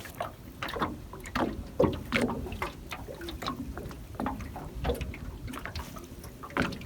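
Water splashing and sloshing around a small boat, with irregular knocks and splashes several times a second.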